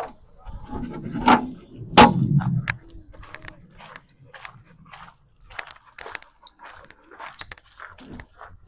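Three sharp bangs or knocks in the first two seconds, the last two followed by a brief low rumble, then a run of lighter, irregular clicks and knocks.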